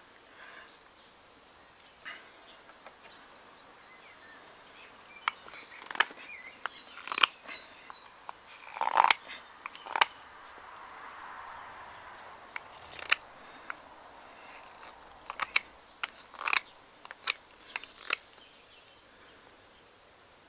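Knife cutting into seasoned alder wood as a spoon blank is shaped: a series of short, sharp slicing strokes at irregular intervals, with a quiet stretch in the first few seconds.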